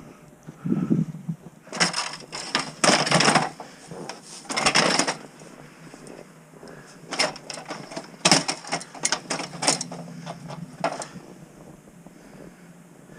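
Crunching and scraping of packed snow and ice in short, irregular bursts with sharp clicks, the loudest a little after halfway.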